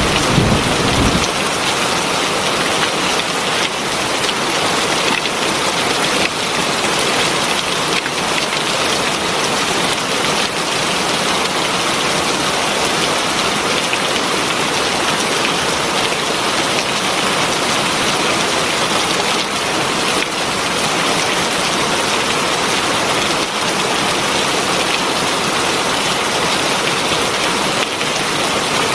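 Heavy rain falling in a steady, dense hiss. A low rumble of thunder dies away about a second in.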